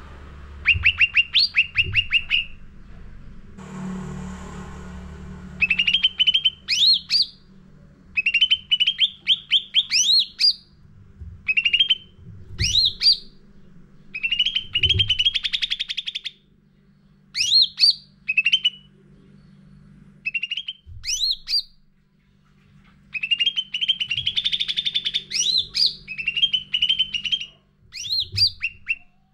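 Cucak ranting songbird singing in full voice: short phrases of rapid, sweeping chirps repeated every second or two, with brief pauses between them. Under it runs a steady low hum, and a short rustle comes a few seconds in.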